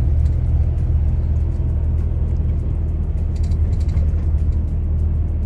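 Lorry engine running steadily while driving, a low, even drone with no change in pace.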